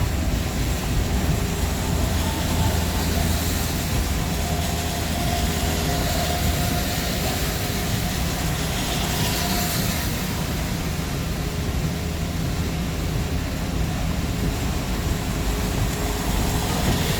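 Steady low rumble of engine and road noise inside a moving vehicle's cab while driving on the road.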